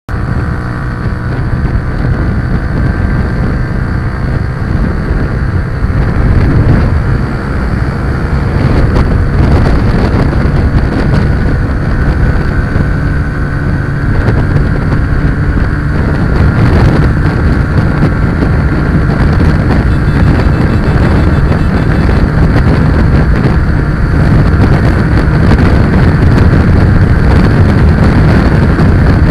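A motor vehicle's engine running steadily while under way, with wind buffeting the microphone.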